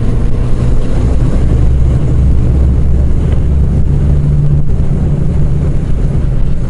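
Motorcycle engine running at a steady cruising speed, with wind rushing over the helmet microphone.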